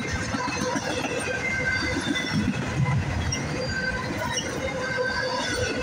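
Double-stack intermodal freight train's well cars rolling past, with a steady rumble of steel wheels on the rail. Short, scattered high-pitched wheel squeals come and go throughout.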